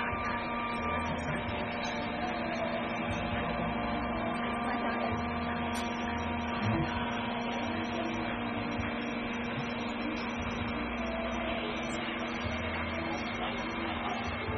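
Steady whir and hum of a BGA rework station's fans and hot-air heater running, with a constant low tone throughout.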